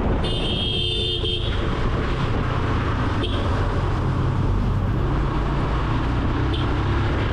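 Motorcycle riding at speed through traffic, a steady engine and road rumble, with a horn sounding for about a second near the start and two brief, fainter toots later.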